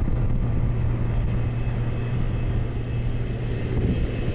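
Steady low rumble of a business jet's engines.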